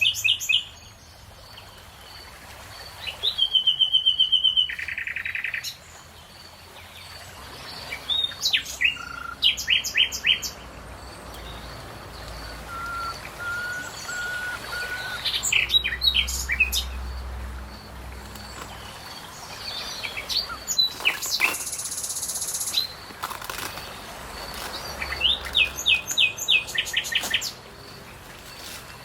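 Songbirds calling outdoors: repeated bursts of quick, high chirps and short trills, with a few plain whistled notes and quieter gaps between the bursts.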